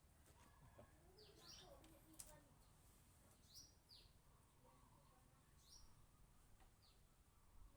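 Faint, short high bird chirps, each a quick slide in pitch, repeating about once a second over near-silent background, with a small click about two seconds in.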